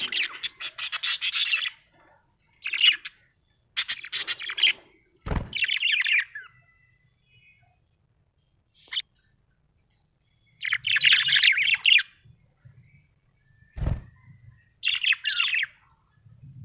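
Budgerigar chirping and chattering in bursts of a second or two, with pauses between them. Two short low thumps, one about five seconds in and one near fourteen seconds.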